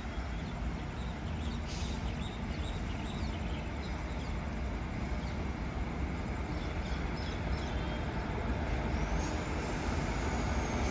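A WAG-7 electric locomotive hauling a goods train approaching from a distance: a steady low rumble that grows slowly louder. A few short high chirps sound over it.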